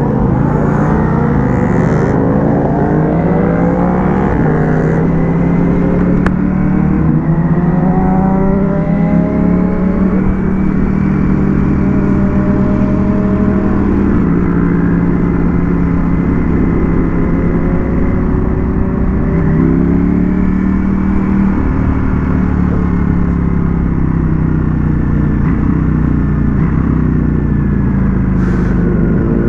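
Ducati Panigale V4S motorcycle's V4 engine under way, its note rising and falling with throttle and gear changes.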